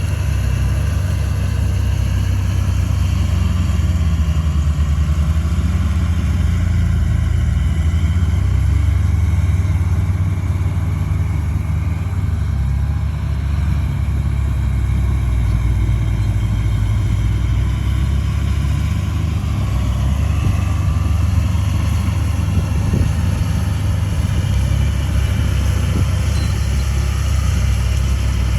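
Heavy diesel engine of earthmoving equipment running steadily: a continuous low rumble with no clear revving or stops.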